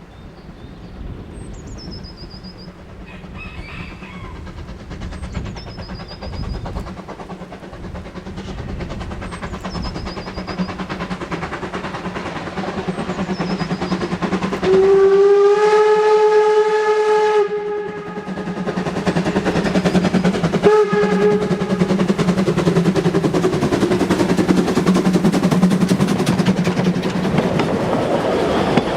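A train approaching and passing, its noise building steadily. It sounds a long horn blast about halfway through and a short one a few seconds later. Near the start a bird repeats a short falling call every couple of seconds.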